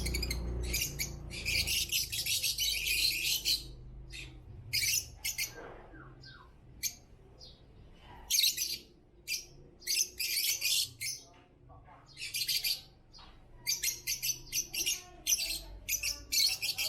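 African lovebirds chattering: bursts of shrill, rapid chirps, some running for about a second, with short quieter gaps between.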